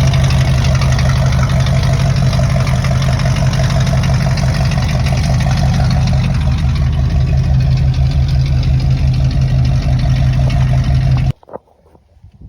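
1969 GMC pickup truck's engine running steadily, a loud, even low drone that cuts off suddenly near the end.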